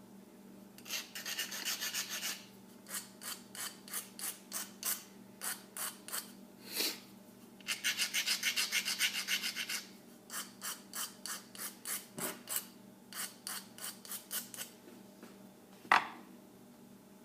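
Small part being worked by hand with an abrasive tool: quick runs of short rasping strokes alternate with slower single strokes about three a second. A sharp click comes near the end.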